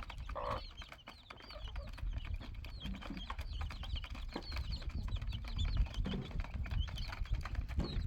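Birds chirping: many short, high chirps in quick succession, over a low rumble and scattered clicks.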